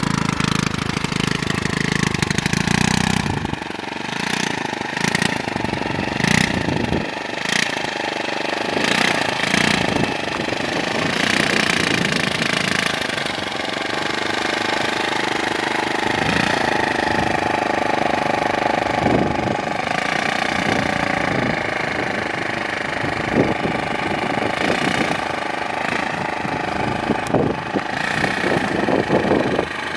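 Small moped engine running under light throttle, its pitch rising and falling as it is ridden slowly, with a series of short loud bursts in the first few seconds.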